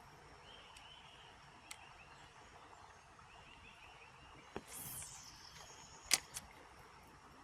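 A fishing cast: about two-thirds through, a quick swish as the rod whips and the spinnerbait flies out, a short whine of line running off the reel, then a sharp click and a smaller second click as the reel is engaged.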